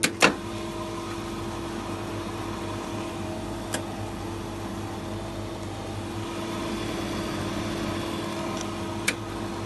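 Adexa slush machine running normally, a steady, quiet motor hum with a constant tone, as a healthy machine sounds. A few sharp clicks stand out, the loudest just after the start.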